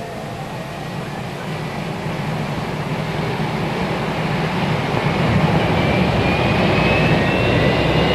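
Boeing 747's Pratt & Whitney JT9D turbofan engines being motored and spooled up on the ground, a jet roar that grows steadily louder. A whine rises slowly in pitch over the second half.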